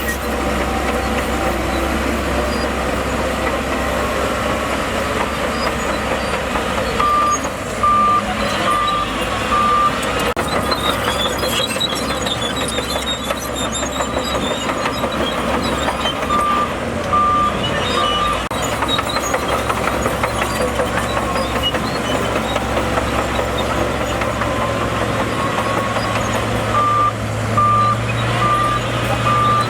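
Heavy earthmoving machinery engines running steadily under load, with a reversing alarm beeping in three runs of a few beeps each, about a second apart.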